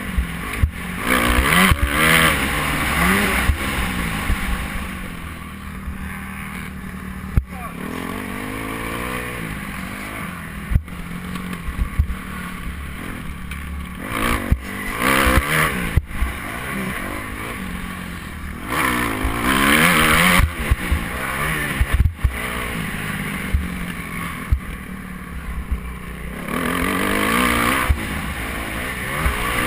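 Motocross motorcycle engines revving, the pitch rising and falling in repeated sweeps as the bikes accelerate, with a few sharp knocks along the way.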